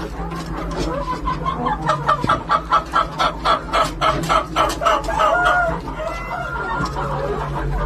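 Chickens clucking in a fast run of about four clucks a second, followed by a couple of short calls, over a steady low hum.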